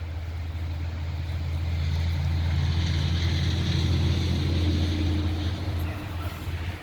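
A motor vehicle passing by: a low engine hum and tyre hiss that grow louder to a peak about halfway through, then fade.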